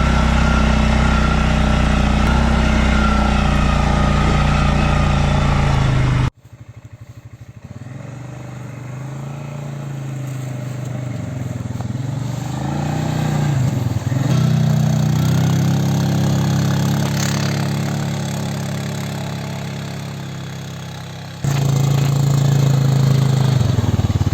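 Stels Leopard 650 ATV engine running under way. It is loud and steady, then drops suddenly about six seconds in to a quieter stretch where the revs rise and fall, and turns loud again near the end.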